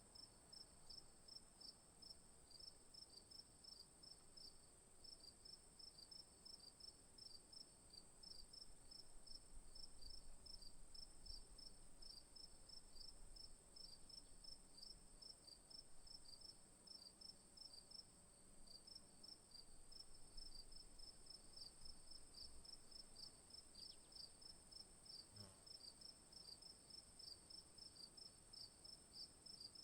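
Insects chirping: a steady high-pitched hum with a rapid, regular chirping over it.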